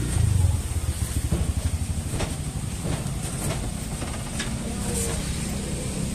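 An engine running with a rapid low pulse, louder in the first couple of seconds, with a few faint clicks over it.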